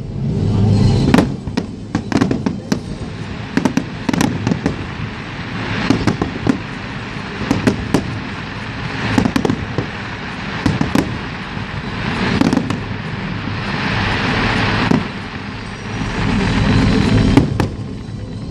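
Fireworks display: a run of sharp bangs from bursting shells at irregular intervals, with a dense crackling stretch about two-thirds of the way through.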